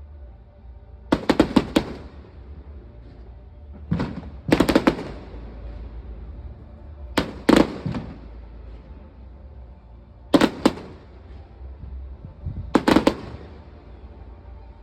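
Fireworks display going off: six groups of sharp bangs about every three seconds, each group two to five reports in quick succession.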